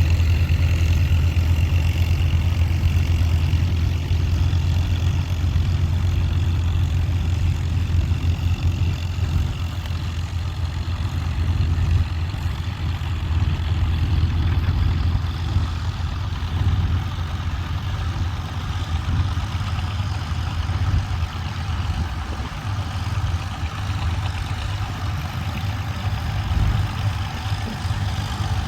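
Farm tractor engines running steadily, the sound mostly deep and low.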